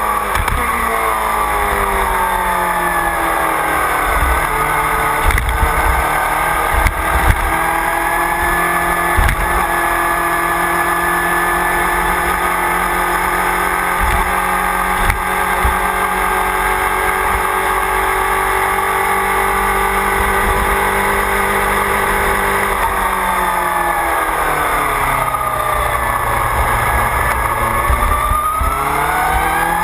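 Motorcycle engine heard on board, with wind rumbling on the microphone. The pitch falls over the first few seconds as it slows, holds steady for a long stretch at speed, drops again a little after twenty seconds in, then rises as it accelerates near the end.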